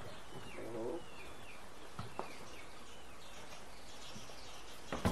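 Small birds chirping in short, falling notes over steady outdoor background noise, with a couple of faint clicks about two seconds in.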